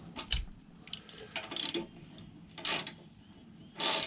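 Socket wrench ratcheting on a motorcycle's rear axle nut in three short bursts of clicking about a second apart, after a metallic clink at the start.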